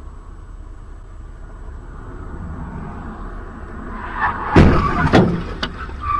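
Steady road rumble of a moving vehicle, then a collision about four and a half seconds in: a loud bang followed by several more knocks and clatter.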